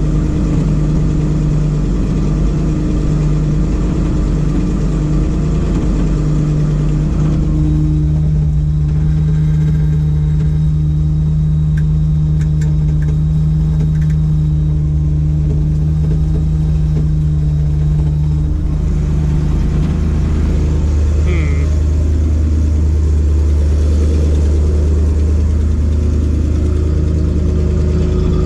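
Ford F700 truck's carbureted 370 V8 engine running steadily, driving the PTO hydraulic pump. The engine note shifts in pitch about a quarter of the way in and again about two-thirds through.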